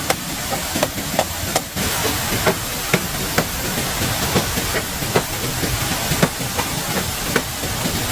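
Repeated sharp chopping strikes, roughly two a second and irregular, over a steady rushing hiss.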